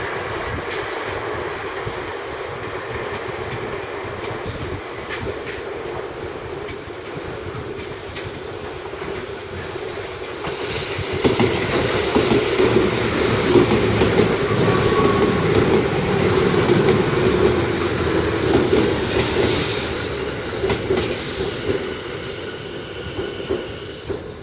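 Tobu Railway electric train running along the track, a steady rumble of wheels on rail that grows louder about halfway through, with a few short high-pitched bursts near the end.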